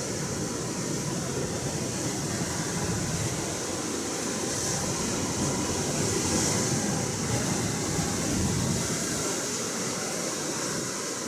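Atlantic Ocean waves washing in, a steady rush of surf that swells a little in the middle.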